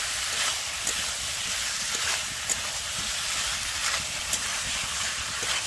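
Broccoli, potato and spice paste sizzling with a steady hiss in a hot metal kadai as they are stir-fried, with the spatula scraping and knocking against the pan now and then.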